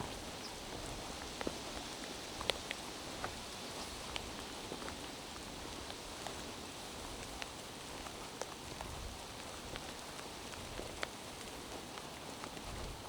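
Steady rain falling in a forest, with scattered sharp drips and drops striking leaves and surfaces close by.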